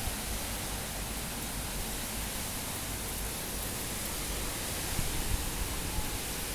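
Severe tropical cyclone wind blowing as a steady, even rushing noise, with a slight low swell about five seconds in.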